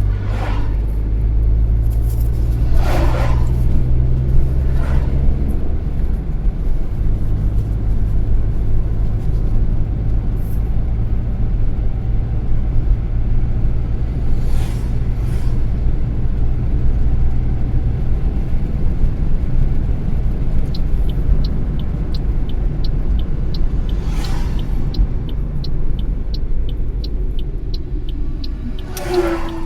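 A car driving: a steady engine and road rumble, with several brief whooshes of passing traffic. About two-thirds of the way in, an even ticking starts at roughly two ticks a second, typical of the turn indicator.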